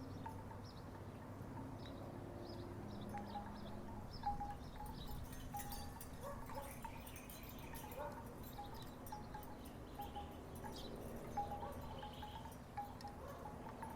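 Wooden tiki wind chimes knocking together in the breeze: a string of short, irregularly spaced knocks, over a steady low background rumble.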